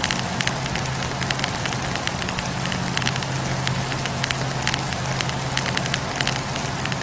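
Wood campfire burning and crackling, with frequent irregular sharp pops over a steady rushing noise and a low hum.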